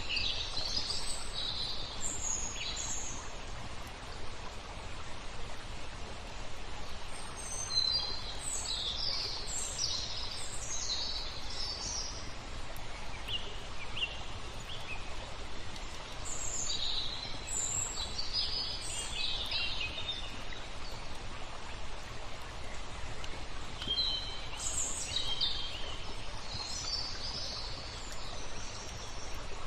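Songbirds chirping and calling in scattered bursts of short high notes, over a steady hiss of flowing water.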